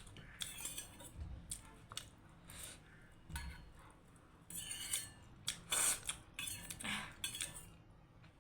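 Close-miked mukbang eating sounds: cutlery clicking and clinking against a plate or bowl while eating momo and noodles, with a few louder, longer noisy bursts about five and six seconds in.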